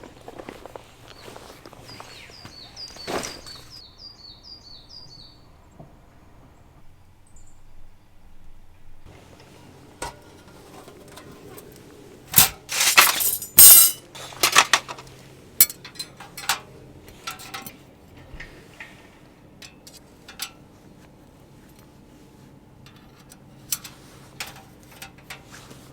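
A bird repeats a short rising chirp a few times a second for the first few seconds. Later come scattered clinks and knocks, typical of handling camp gear, with the loudest event a harsh scraping or rustling burst of about a second and a half midway through.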